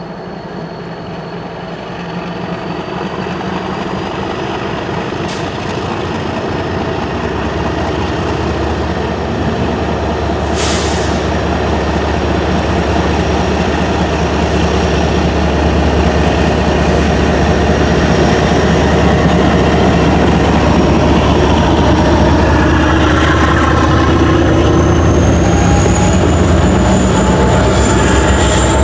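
A GE ES44DC and an EMD SD70M-2 diesel locomotive working slowly past at close range, growing steadily louder as they pull double-stack container cars behind them. A thin high wheel squeal climbs in pitch toward the end as the cars roll through the curve, with a brief hiss about a third of the way in.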